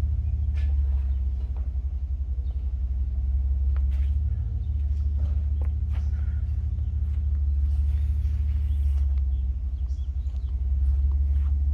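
An engine running steadily at low speed: a deep, even rumble with a fine regular pulse, and a few faint clicks over it.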